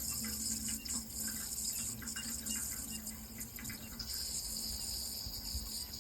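Water running and trickling steadily, with a steady high-pitched insect chirring over it.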